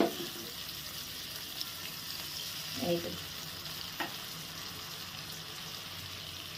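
Cumin and dried-chilli paste with tomato sizzling steadily in hot mustard oil in a wok, with a little water poured in at the start. A light knock about four seconds in.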